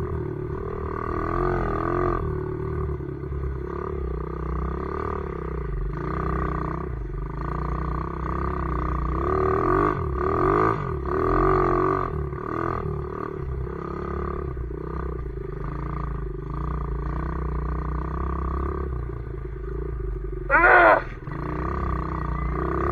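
Pit bike's small single-cylinder engine running under load, its pitch rising and falling as the throttle changes, loudest about halfway through. Near the end there is a brief, loud, high-pitched sound.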